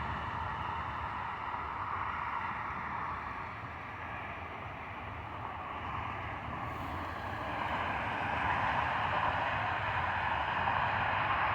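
Jet airliner engines roaring steadily, growing louder about eight seconds in.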